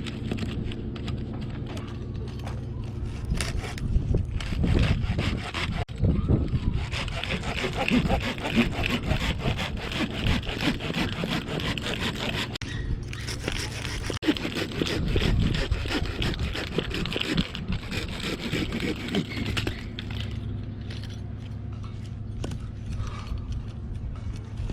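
Hand saw cutting through a wooden log, rasping back-and-forth strokes through most of the stretch. A steady low hum sits under it at the start and again near the end.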